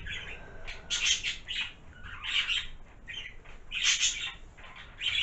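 A person sniffing at an opened bottle of shower gel, a series of short sharp sniffs about one every half second to a second.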